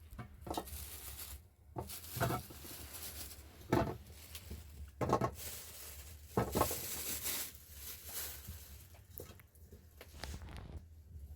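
Scattered knocks and clatter, about six sharp ones a second or so apart, over a faint steady low hum.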